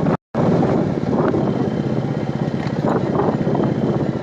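Royal Enfield Meteor 350's single-cylinder engine running as the bike is ridden, with a fast even pulse. The audio drops out for a moment just after the start.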